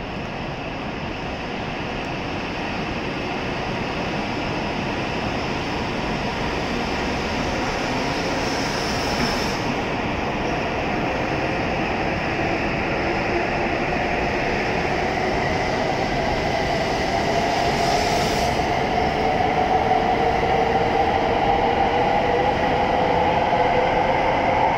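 E7 series Shinkansen trainset pulling out and accelerating past the platform, its traction motors whining in a steadily rising pitch over a rush of running noise that grows louder throughout. A brief high hiss comes twice, about nine and eighteen seconds in.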